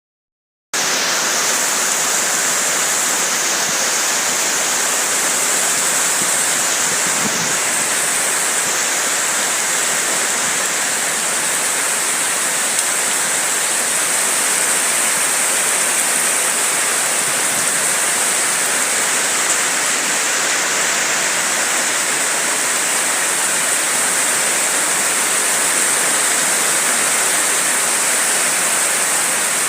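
Rain falling in a steady hiss that cuts in abruptly under a second in.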